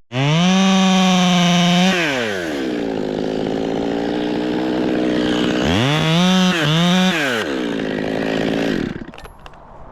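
Two-stroke chainsaw revved to a high, steady full-throttle whine, then dropping to a lower speed about two seconds in. It is blipped up to full throttle twice more around six and seven seconds in, then winds down and stops near the end.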